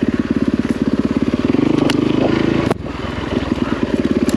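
Yamaha WR450F's single-cylinder four-stroke engine running at low revs with an even, rapid pulse. There is a sharp click about two and three-quarter seconds in, after which it runs briefly quieter.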